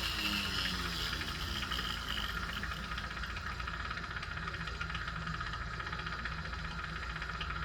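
Jeweler's rotary tool running steadily while grinding and smoothing a soldered link on a hollow gold chain, a motor hum under a gritty, hissing grind.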